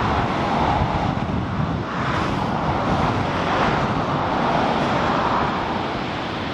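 Ocean surf washing in a steady rush with slow swells, mixed with wind buffeting the microphone.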